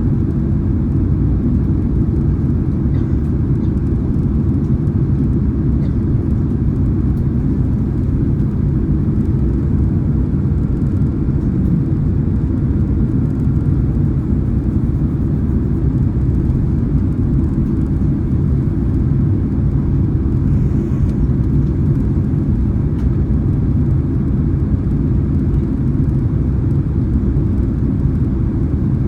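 Boeing 767-300ER cabin noise on final approach: a steady low rumble of engines and airflow, heard from a passenger seat inside the cabin.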